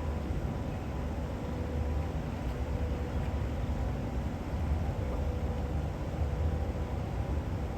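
Steady low rumble with a faint steady whine, the distant running of jet aircraft engines at the airport.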